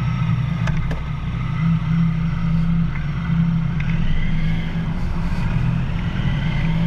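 Triumph Sprint ST 1050's three-cylinder engine running steadily.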